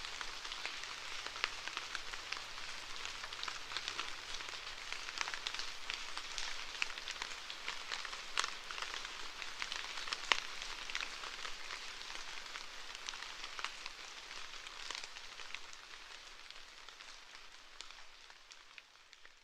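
Rain falling, a steady hiss dense with sharp individual drop ticks, fading out gradually over the last few seconds.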